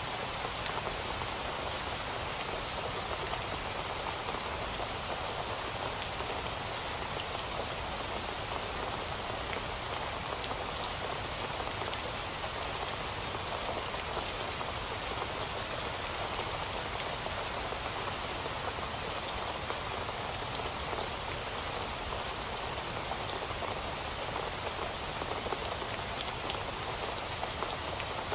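Steady rain falling, a dense even patter of drops on a surface, with many fine individual drop ticks.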